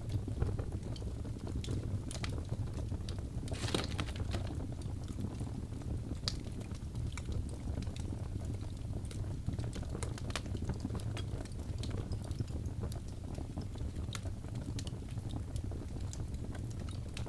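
Crackling fire: a steady low rumble of flames with irregular sharp pops and crackles, a quick cluster of them about four seconds in.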